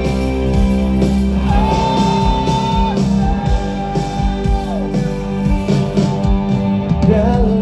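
Live pop-rock band playing an instrumental stretch between vocal lines: drums, bass and guitars, with two long held melody notes in the first part.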